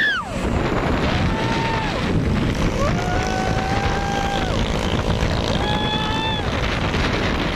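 Steady rumble and wind noise of a passing truck, with three separate long held tones of different pitch over it, about one, three and six seconds in.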